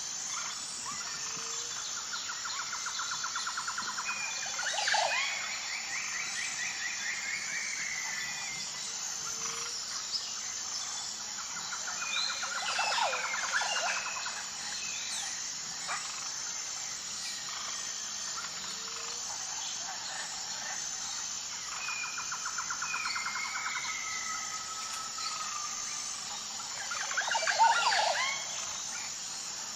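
Wild birds singing and calling over a steady high insect drone. About every ten seconds a buzzy trill and slurred whistles come, followed by a burst of sharp chattering calls; the loudest burst is near the end.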